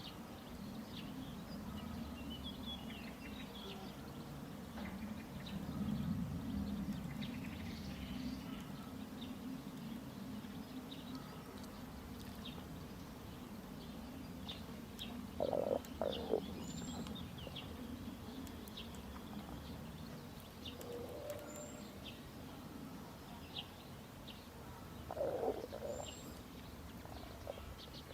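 Outdoor ambience: small birds chirping now and then over a steady low rumble, with a few short, louder sounds about halfway through and again near the end.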